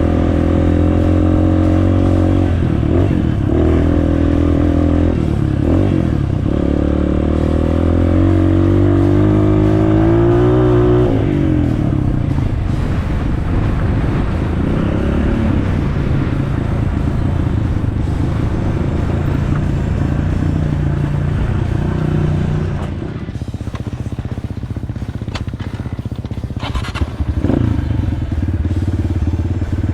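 Honda CRF230F dirt bike's single-cylinder four-stroke engine running under load, rising steadily in pitch for about ten seconds, then dropping back and varying as the rider eases off and picks up again; a few short clatters near the end.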